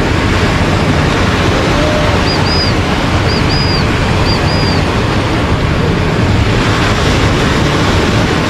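Steady rush of ocean surf, with wind buffeting the microphone. Three pairs of faint, short, high chirps sound about two to five seconds in.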